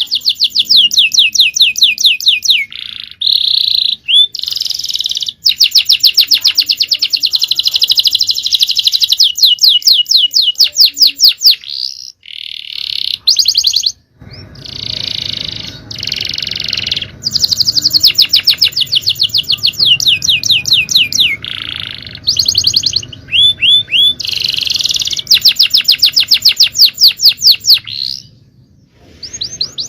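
Male canary singing: long runs of very fast repeated trill notes, broken by short buzzy and whistled phrases.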